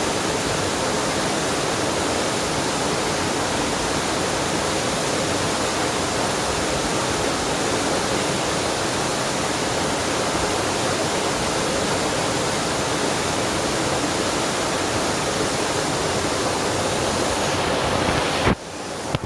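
Waterfall and mountain stream, water rushing in a steady, even roar that breaks off suddenly near the end.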